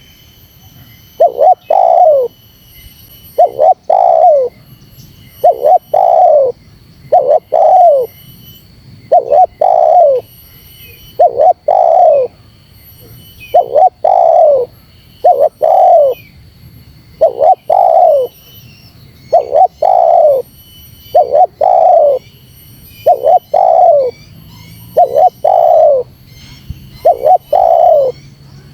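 Spotted dove cooing over and over in a steady rhythm. Each phrase is a short note followed by a longer coo that slides down in pitch, repeating about once every two seconds.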